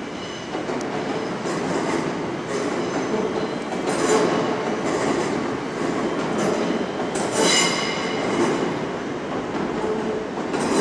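Electric passenger train moving slowly through the station, its wheels squealing on the rails, loudest about four seconds in and again near the eight-second mark, with intermittent clicking over the track.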